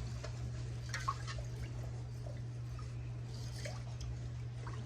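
A spoon stirring seasonings into water in a rice cooker's inner pot: faint scattered clinks and watery sloshing over a steady low hum.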